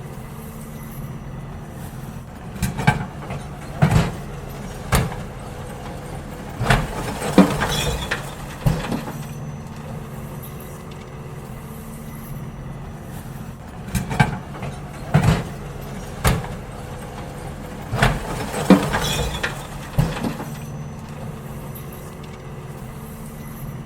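Garbage truck with its engine running steadily while wheelie bins are emptied into it. Two bouts of loud bangs and clatter from the bins stand out, one about three to nine seconds in and another about fourteen to twenty seconds in.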